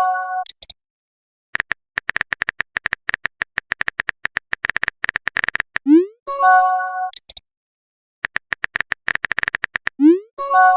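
Phone chat sound effects, twice over: several seconds of rapid typing clicks, then a quick rising pop and a short electronic chime as each message is sent.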